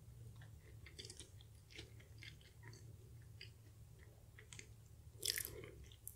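Close-up mouth sounds of chewing a Portuguese egg tart: faint, scattered crackles from the flaky pastry, with one louder crunch about five seconds in.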